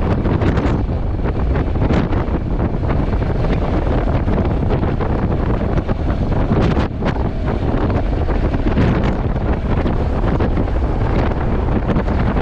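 Heavy wind noise buffeting a GoPro's built-in microphone on a moving motorcycle: a loud, steady rumble with no clear pitched tone.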